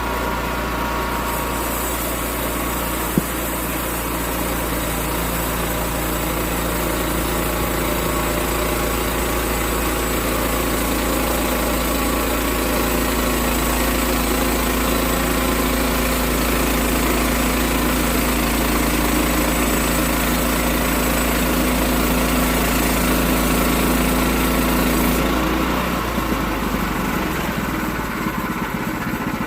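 Sawmill engine running steadily, with a high hiss from about a second in until near the end, as the blade cuts through an oak log; the engine note changes when the hiss stops.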